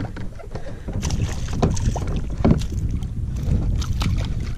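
Handling noise on a fishing kayak as a small fish is brought in: scattered knocks and bumps over a steady low rumble of wind and water.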